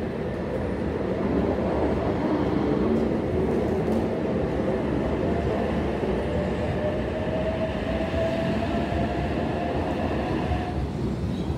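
Double-deck electric passenger train running past close by along the platform, with steady wheel and rail rumble. A motor whine rises slightly in pitch through the middle and cuts off shortly before the end.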